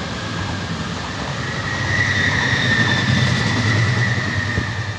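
Red S-Bahn electric multiple unit passing close by: a rumble of wheels on rail with a steady high whine over it, swelling to its loudest in the middle and easing off near the end as the train draws away.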